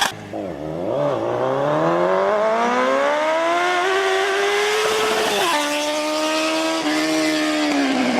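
Motorcycle engine accelerating, its pitch climbing steadily for several seconds, dropping sharply about five and a half seconds in as it shifts up, then holding steady before falling away near the end.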